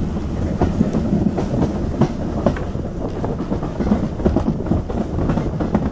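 Heritage railway passenger carriage in motion: steady rumble of the running gear with irregular clickety-clack knocks of the wheels over the rail joints, heard from inside the coach.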